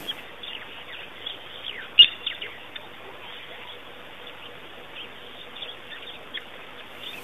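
Wild birds chirping: a scatter of short, high, falling chirps, with one sharper, louder one about two seconds in.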